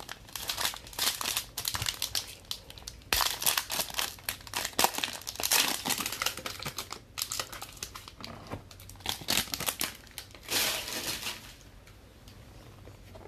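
Trading-card packaging being torn open and crinkled by hand: an irregular run of crackling and rustling that dies down near the end.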